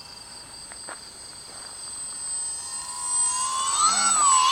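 Electric motor and propeller of an RC foam airplane whining in flight. It is faint at first and grows louder from about three seconds in, with the pitch swinging up and down.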